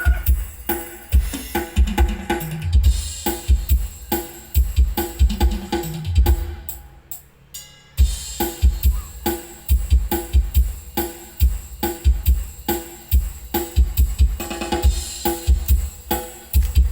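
Loud music with a heavy kick-drum beat and snare, played through a PA rig with 18-inch bass cabinets. The bass beat drops out for a moment about seven seconds in, then comes back.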